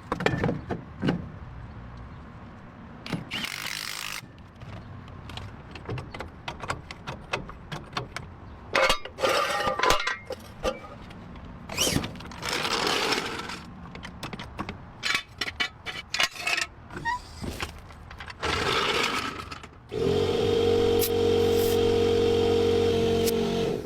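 Workshop tool work: a string of sharp clicks and knocks with several short hissing or grinding bursts. Near the end, a steady machine drone with a pitched hum starts and runs for about four seconds before cutting off.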